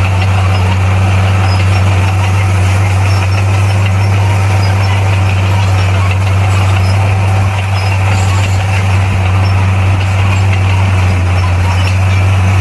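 Bulldozer's heavy diesel engine running at a steady speed, a constant low drone with no revving.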